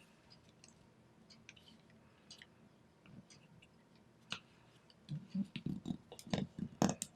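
Origami paper being handled and folded: scattered small paper crackles, then a busier run of louder creasing crackles and soft taps from about five seconds in.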